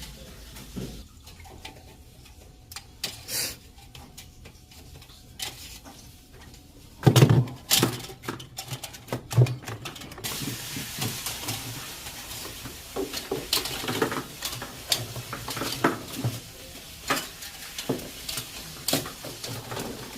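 Metal clinks and knocks of hand tools and parts being handled during work on a refrigerator's cooling coil and defrost heater, sparse at first and then busier. A steady hiss joins about halfway through.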